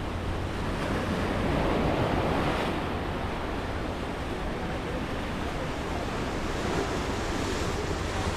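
Ocean surf washing onto a rocky shoreline, swelling about two seconds in and then easing, with wind rumbling on the microphone.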